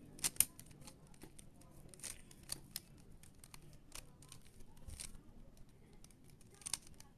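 Rubik's cube being turned by hand: irregular quiet plastic clicks and scrapes of the layers twisting, with two sharper clicks near the start.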